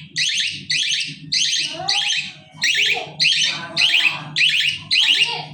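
Budgerigars chirping in quick, high, warbling calls that follow one another about twice a second, over a steady low hum.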